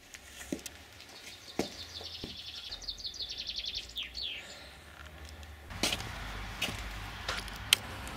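Birds chirping and trilling, a fast trill and some quick falling chirps in the first half, with a few sharp clicks scattered through, the loudest near the end.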